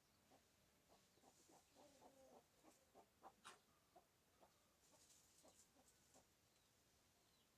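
Faint clucking of chickens: a run of short, irregular clucks, with faint high chirps from other birds.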